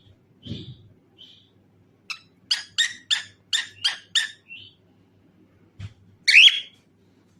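Cockatiel chirping: a few soft chirps, then a quick run of about seven sharp chirps, and one loud call near the end.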